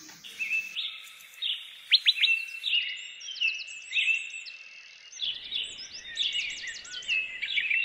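Birds chirping: a string of short whistled notes and quick warbling trills, repeating throughout.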